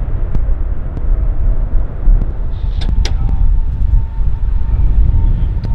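Loud, steady low rumble of a jet airliner's engines, with a few sharp clicks about three seconds in and a faint steady whine from then on.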